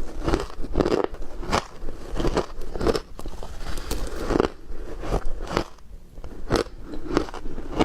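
A person biting and chewing ice, with sharp crunches about two a second and a short pause about three-quarters of the way through.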